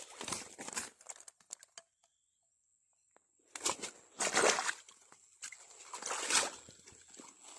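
Water sloshing and splashing in several bursts, with a dead-silent gap of about two seconds early on.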